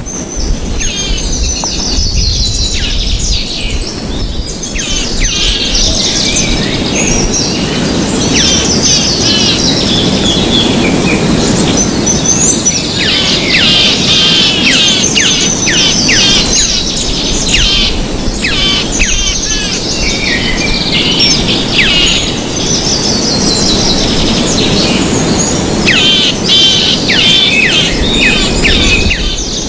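Many birds chirping and singing over one another, with steady background noise underneath.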